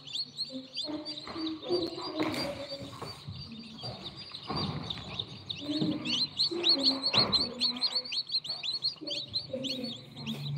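A brood of newly hatched chicks peeping continuously, many short downward-sliding peeps overlapping, with a few brief rustles.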